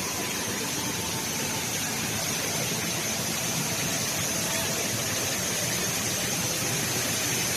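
Steady rush of water from the world's tallest indoor waterfall, the HSBC Rain Vortex, pouring down in an even, unbroken wash of noise.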